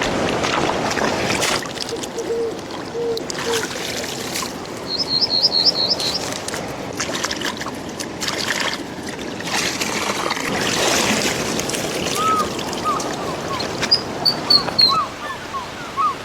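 Stream water flowing and splashing over stones, with small birds calling over it: a quick run of high chirps about five seconds in, and more chirps and short whistled notes in the last few seconds.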